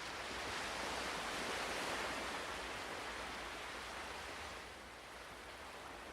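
Ocean surf: one wave washing in, a rush of noise that swells over the first two seconds and fades away by about five seconds in.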